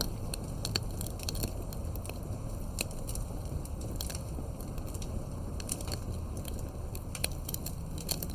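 Wood fire burning, with a steady low rumble of the flames and irregular sharp pops and crackles from the burning wood.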